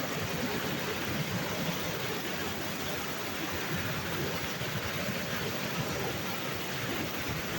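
Waterfall: water falling and splashing, a steady rushing noise.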